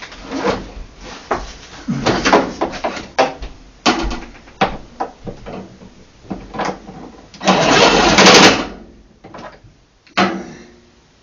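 Knocks, clicks and clatter of tools and washing-machine parts being handled, with a loud noisy burst lasting about a second, about eight seconds in, then quiet near the end.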